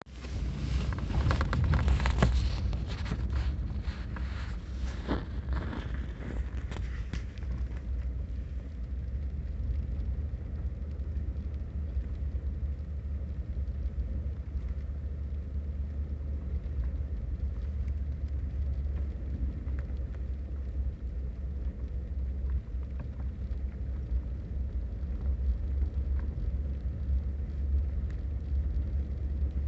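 Winter storm of rain, ice and snow: a steady low rumble throughout, with a dense scatter of sharp ticks and taps over the first seven seconds or so that then thins out.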